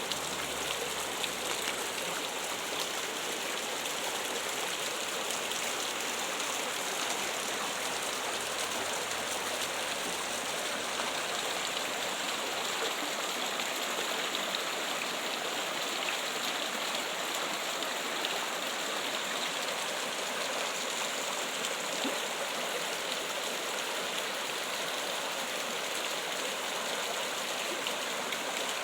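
Running water trickling and splashing steadily, like a small stream or a fountain.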